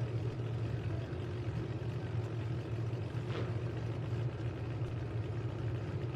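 Full-size demolition derby truck engines idling during a red-flag stoppage, a steady low rumble.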